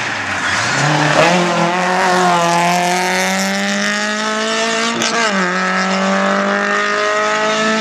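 Skoda Favorit rally car's four-cylinder engine pulling hard: its note sits low about half a second in, then climbs steadily, drops with a sharp crack at an upshift about five seconds in, and climbs again.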